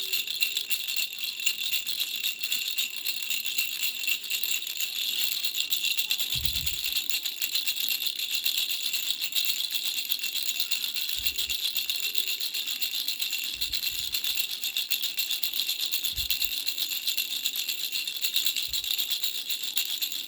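Toy baby rattles shaken continuously: fast, dense rattling with a steady bright high ring, broken now and then by a brief low thump of handling.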